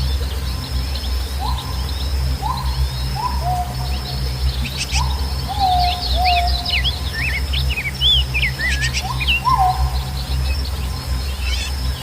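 A chorus of songbirds chirping and calling, with quick high twitters and a run of lower, falling calls repeated every second or so, over a steady high buzz and a steady low rumble.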